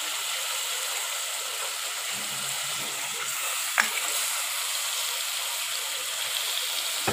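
Chicken frying in a spiced sauce in a pan, a steady sizzle, while a utensil turns the pieces, with one sharp click against the pan a little under four seconds in.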